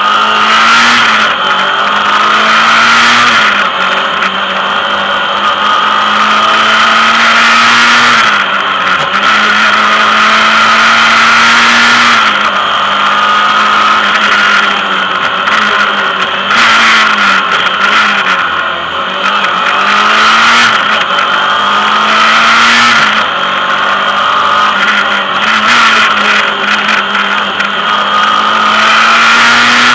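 Lancia Delta competition car's engine heard from inside the cabin, driven hard uphill. Its pitch climbs under throttle and drops back again and again through the gear changes and lifts, over steady wind and road noise.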